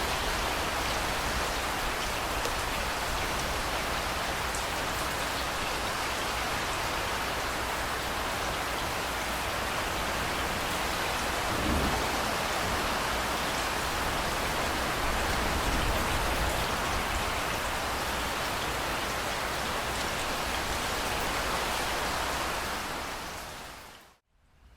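Steady downpour of rain, a dense even hiss of drops, with a low rumble swelling about halfway through. The rain fades out to silence just before the end.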